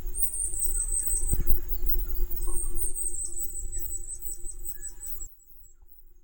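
Wallace's fairywren singing: very high, thin drawn-out notes, one long note and then a second, longer one broken by quick repeated ticks, over a low rumble. The recording stops abruptly about five seconds in.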